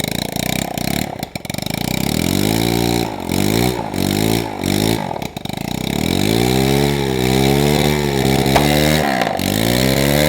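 Coolster 110 pit bike engine revved hard during a burnout to burn off the rear tire. The revs rise and fall in several short blips, then hold high for a few seconds, drop briefly and climb again near the end.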